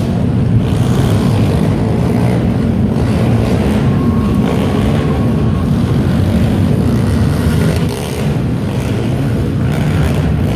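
Several pit bike engines running together in a loud, steady drone.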